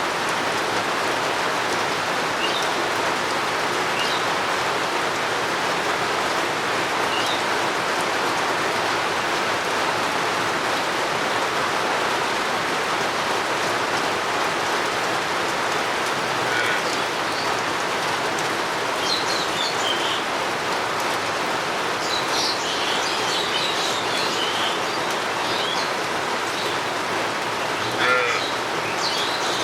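Steady rain falling, with birds chirping now and then through it, the calls more frequent in the second half and one louder call near the end.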